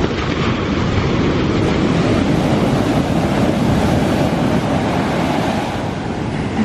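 Steady rush of surf on the beach, with wind buffeting the microphone.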